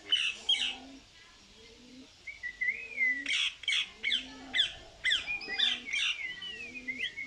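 Pet parrot calling: two sharp calls right at the start, then a quick run of sharp calls and whistled chirps through the middle and latter part.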